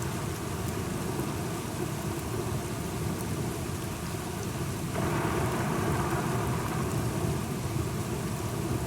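Steady rain with a low rumble of thunderstorm underneath. About five seconds in, the rain suddenly grows louder and stays that way.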